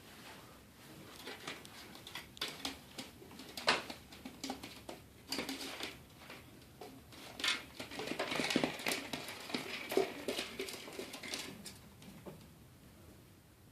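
Birds nesting in the space between the ceiling and the roof, scratching and scurrying above the ceiling: irregular scrabbling and tapping, busiest and loudest in the middle, thinning out near the end. It is the sign of a bird infestation in the ceiling cavity.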